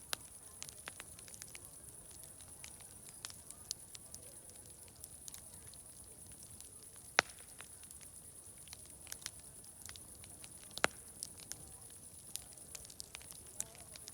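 Wood fire crackling, with irregular sharp pops and snaps; the two loudest come about 7 and 11 seconds in, over a steady high hiss.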